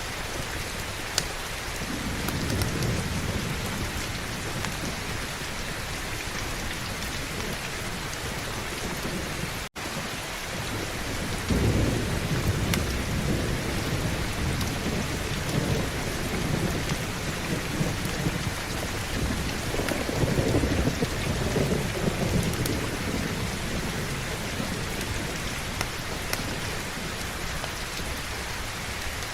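Steady heavy rain with rolling thunder: a low rumble about two seconds in, and a longer rolling rumble from about eleven seconds to past twenty seconds. The sound cuts out for an instant near ten seconds.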